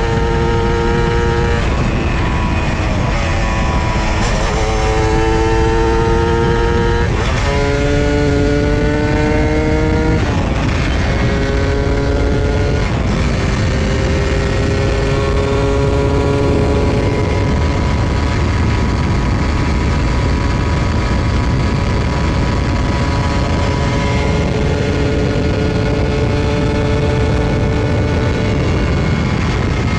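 Honda Dash 125's two-stroke single-cylinder engine under way: it climbs in pitch and drops back at each of several gear changes, then holds a steady cruise from about halfway in. A heavy low rumble of wind runs underneath.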